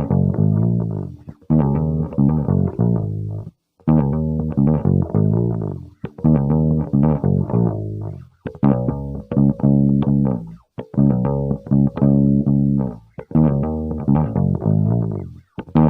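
Solo electric bass, an Aria Pro II PJ bass played through a Digitech BP80 amp-modelling preamp, playing short phrases of plucked notes with brief breaks between them.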